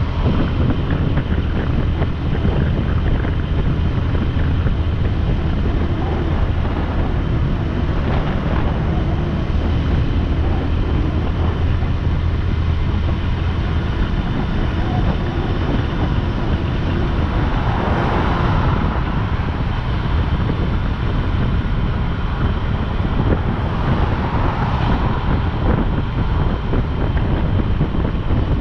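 Wind rushing over the microphone of a moving motorcycle, with a low engine drone underneath that is strongest in the first half. The noise swells briefly twice in the second half.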